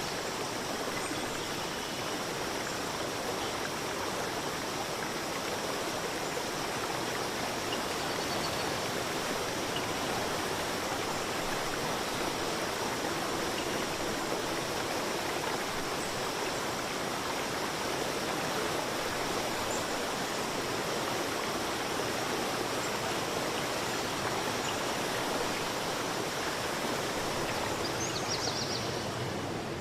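A forest river stream rushing steadily over rocks: an even, unbroken water noise.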